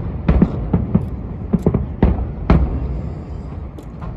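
Aerial fireworks bursting: a rapid series of booms and cracks, about seven or eight in the first three seconds, thinning out near the end.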